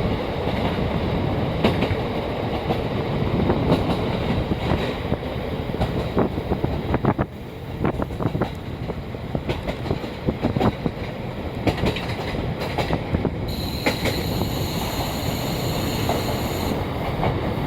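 Donan Isaribi Railway KiHa 40 diesel railcar running, heard from inside the car, with the wheels clacking over rail joints. Near the end a high-pitched squeal sounds for about three seconds.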